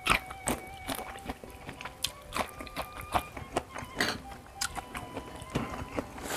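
Close-up chewing of a mouthful of rice and food: irregular wet mouth clicks and smacks, the loudest right at the start, over soft background music of held notes.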